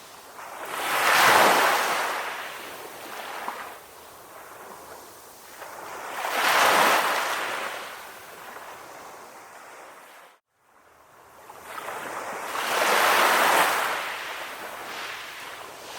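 Sea surf: waves break and wash in three times, each surge swelling and then fading. The sound drops out completely for a moment about two-thirds of the way through.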